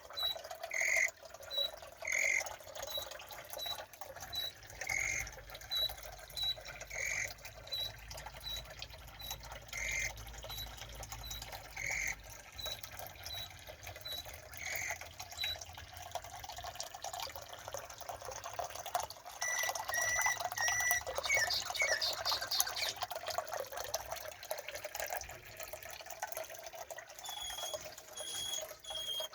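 Birds calling: one call repeated every second or two with quick high chirps between. A denser, noisy stretch with several calls together comes about two-thirds of the way through, and a different repeated call follows near the end.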